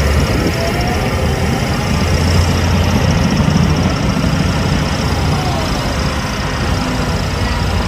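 Heavy diesel earthmoving machinery running steadily, a deep continuous engine drone.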